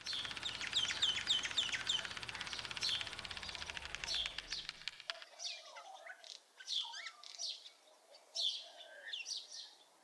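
Wild birds singing and chirping: a rapid run of short, high, falling notes at first, then more widely spaced calls. A low background noise underneath stops about halfway through.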